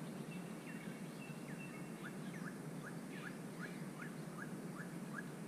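Wild birds calling over a steady low background rumble. Thin high whistles come early, and from about two seconds in one bird repeats a short falling note about three times a second.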